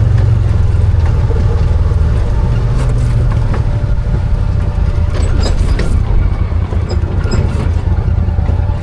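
Arctic Cat Wildcat 1000 side-by-side's V-twin engine running steadily while driving, with rattles and knocks from the machine jolting over rough trail, mostly a few seconds in.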